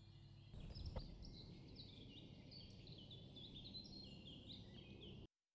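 Faint outdoor ambience with a small songbird singing a rapid run of short, high, repeated notes, and a soft thump about a second in. The sound cuts off abruptly near the end.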